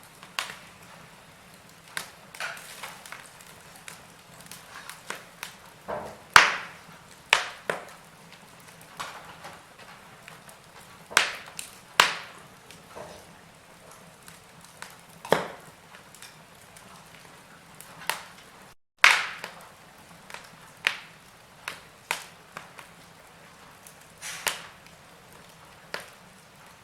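Wood fire in a fireplace crackling: irregular sharp pops and snaps over a faint steady hiss, a few of them much louder than the rest.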